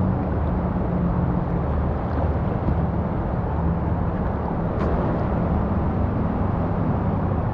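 Steady rushing roar of river water pouring over a weir, heavy in the low end and unchanging throughout.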